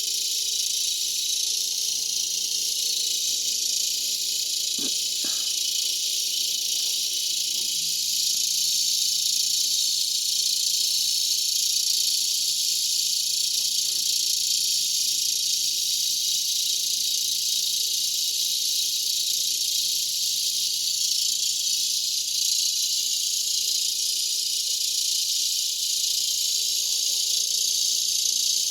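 Cicada chorus: a steady, loud high-pitched buzzing hiss from many cicadas at once, swelling a little about eight seconds in.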